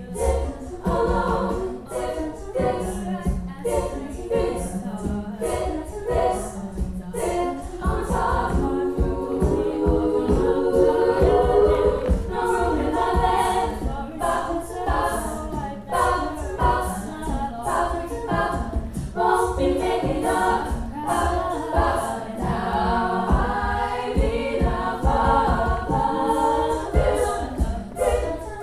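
A cappella vocal ensemble singing in layered harmony, with beatboxed vocal percussion keeping a steady beat underneath.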